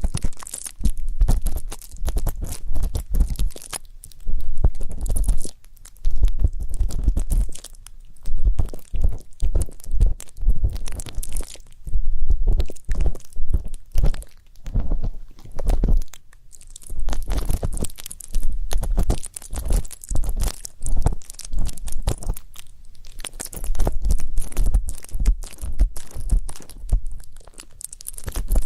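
Ear pick scraping and rubbing in a microphone's ear for ear-cleaning ASMR: dense, crackly scratching in runs of a second or two with short pauses between, with a low rumble under each run.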